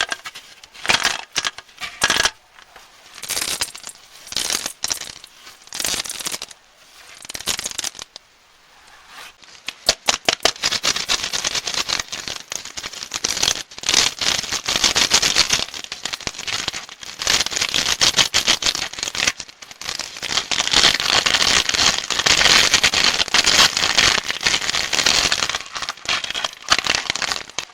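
Plastic candy wrappers crinkling and crackling as sweets are unwrapped by hand, in short flurries at first, then a nearly continuous crinkling through the second half.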